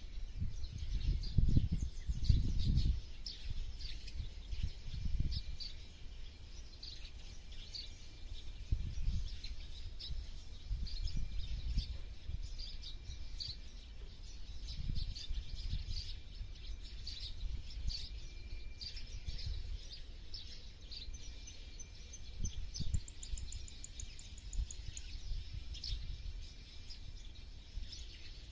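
Several small birds chirping and calling in the countryside, many short chirps overlapping, with a quick high trill a little after the middle. Under them a low rumble comes and goes, strongest in the first few seconds.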